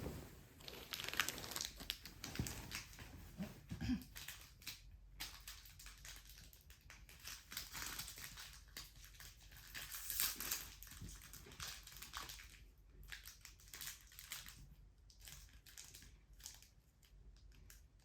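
Faint, irregular crinkling and rustling made of many small crackles and clicks, with a few louder bursts.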